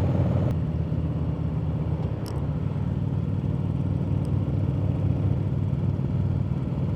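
Harley-Davidson motorcycle's V-twin engine running steadily at road speed, its note dipping briefly about two seconds in.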